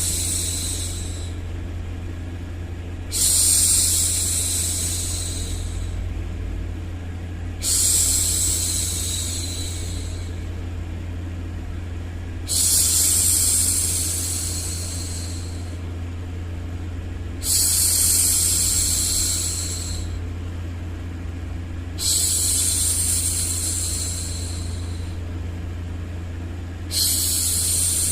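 A woman hushing a baby with long 'shhh' sounds. A new shush starts about every four to five seconds, each lasting around two seconds and trailing off, over a steady low background hum.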